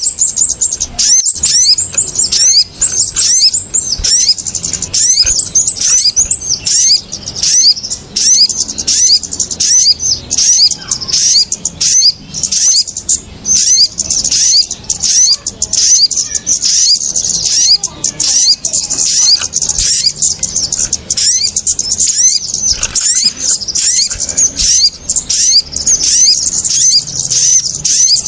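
Bird-lure recording of small birds, kemade and sogon, calling in an agitated clamour: a dense, unbroken stream of sharp, high-pitched chirps, several a second. These excited calls are played to draw small birds down to birdlime.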